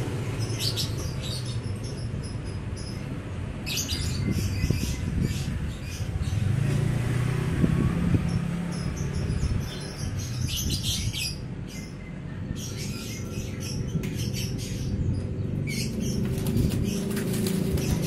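Birds chirping in repeated short high-pitched bursts, over a steady low hum.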